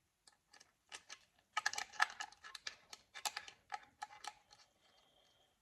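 Small threaded metal pipe fittings clicking and clinking as they are handled and fitted together, in an irregular run of light taps, some with a short metallic ring.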